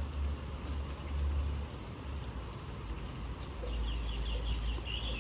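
A steady low rumble, and from about three and a half seconds in a bird's rapid high-pitched chattering call.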